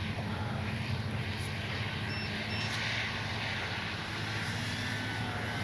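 Electric RC sport plane's brushless motor and propeller buzzing steadily in flight, an E-flite Sportix running on a LiPo battery.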